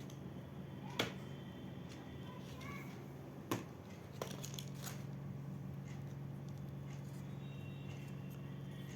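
Items being handled during an unboxing of school supplies: two sharp clicks and a few lighter ticks and rustles over a steady low hum.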